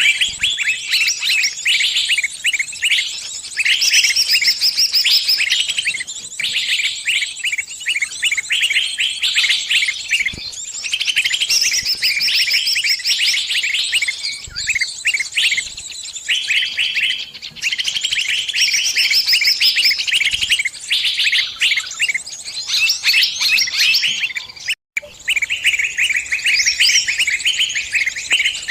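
Small birds chirping rapidly and continuously in dense, overlapping high-pitched trills, broken by a brief dropout near the end. The title presents it as the distress calls of a trapped bird calling its flock for help.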